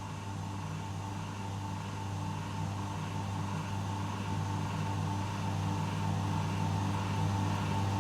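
A vehicle engine running steadily, a constant hum that grows slowly louder.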